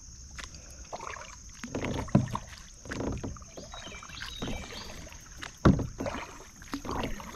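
Kayak paddling: the paddle dipping and splashing into calm water roughly once a second, with two sharper knocks, one about two seconds in and one past the middle.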